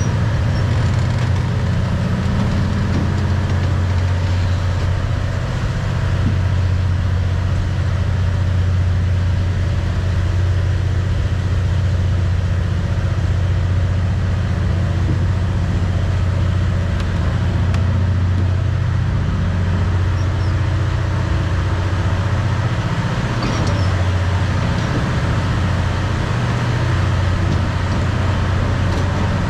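Steady low engine drone from a motor vehicle running at an even pace throughout, with no marked changes.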